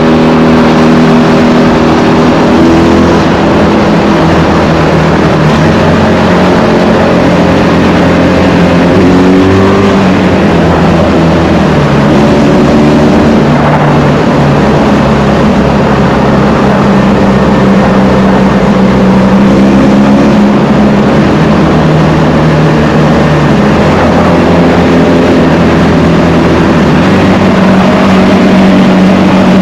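1984 Honda VF500F Interceptor's liquid-cooled 90-degree V4 engine running hard as the bike is ridden through a tunnel. Its pitch steps up and down several times with throttle and gear changes, and revs rise near the end.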